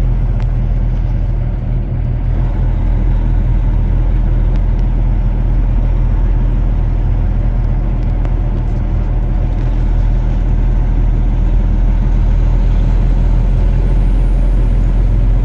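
Steady low drone of a vehicle's engine and road noise, heard from inside the cab while driving along.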